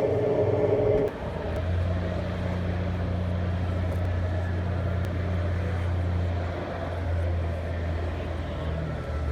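Steady low engine drone. About a second in, a louder and higher-pitched engine sound cuts off abruptly, and the low drone carries on from there.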